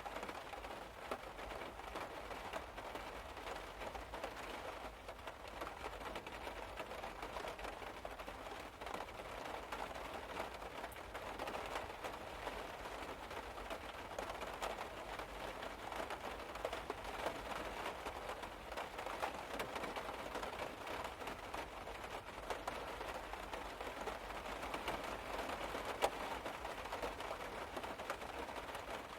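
Rain falling on a car's roof and body, heard from inside the car: a steady, dense mix of many small irregular drop taps.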